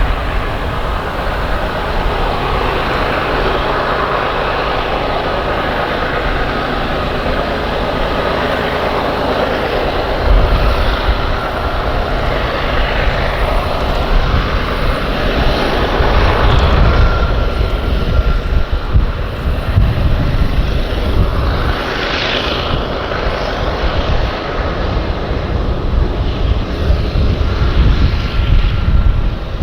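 Loaded coal hopper cars of a Union Pacific coal train rolling past in a steady rumble and rush, with a faint steady squeal. A heavier, uneven low rumble comes in about a third of the way through.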